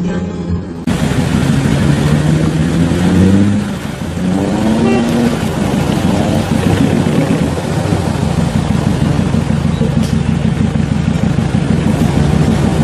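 Off-road 4x4's engine revving hard, its pitch climbing twice in the first few seconds, then running steadily under load with a rapid, rough pulsing.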